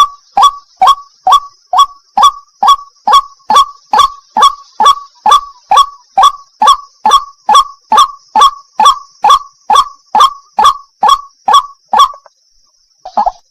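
White-breasted waterhen (burung wak-wak) calling: a fast, even run of loud, short 'wak' notes, about two a second, that stops about twelve seconds in, followed by one brief call near the end.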